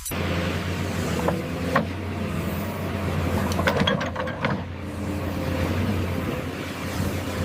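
Radio-controlled construction machine running: a steady low engine hum with a few sharp clicks and rattles from its moving parts, a cluster of them around the middle.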